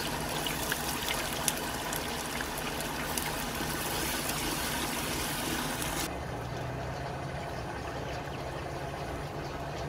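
Onion, garlic paste and ginger paste sizzling in hot oil in a clay pot, with scattered small crackles. About six seconds in the sizzle cuts off abruptly, leaving a fainter, duller steady noise.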